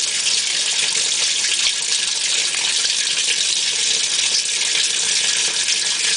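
Steady rush of water in the open tub of a GE Hotpoint HTWP1400F1WW top-load washer filling while the agitator churns it fast and hard in only about 5 inches of water. This is the fault: the owner believes it should be a slow agitation.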